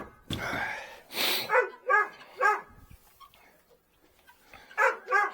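A dog barking: three quick barks, a pause of about two seconds, then two more near the end. A short noisy rustle or whoosh comes just before the first barks.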